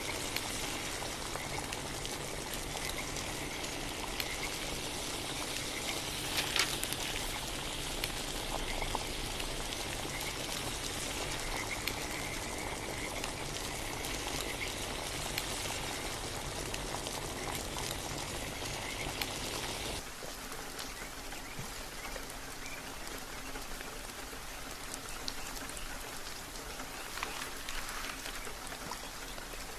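Steady rain falling, a dense hiss of drops. About two-thirds of the way through it changes to a slightly quieter, thinner rain sound.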